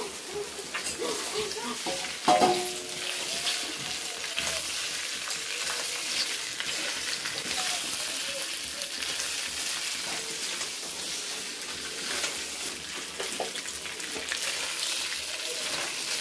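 Pieces of rice pitha sizzling as they fry in hot oil with onion and garlic in a wok, stirred with a steel spatula that scrapes and clicks against the pan. A loud metal clank comes about two seconds in.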